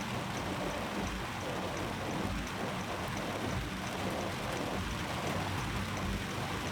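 Heavy rain pouring steadily on and around a car, heard from inside it.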